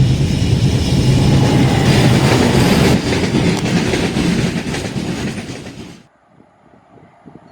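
Diesel-hauled passenger express passing at speed: a loud rumble with wheels clattering over the rails, fading away, then cutting off suddenly about six seconds in.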